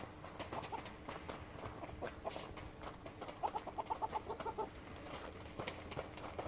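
Chickens clucking: short pitched notes, with a quick run of them about three to four and a half seconds in, over light scattered taps.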